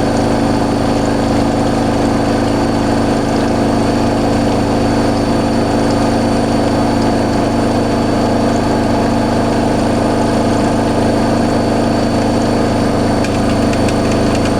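Hoover SIX Inter@ct AAA Whisper 1600 washing machine spinning at high speed: a loud, steady hum of motor and drum.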